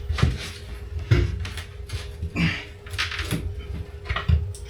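Irregular knocks, thuds and scrapes of wood panelling being worked loose inside an ambulance body, under a faint steady hum.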